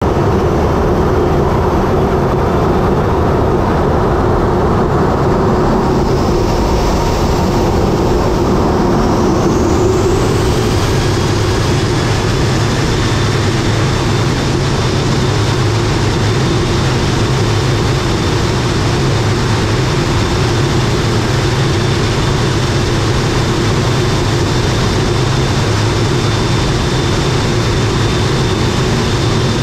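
Airliner noise heard from inside its landing-gear bay: a loud, steady rush with a low drone. A faint whine rises in pitch about seven to ten seconds in and then holds steady.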